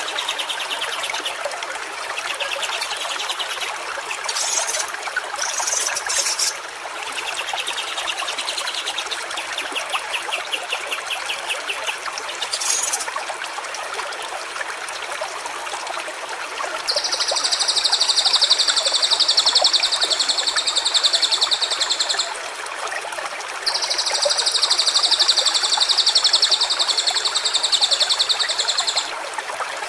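A stream trickling steadily, with short rapid pulsing trills in the first half. From a little past halfway a loud, high, steady buzz takes over in three long stretches of about five seconds each, with brief breaks between them.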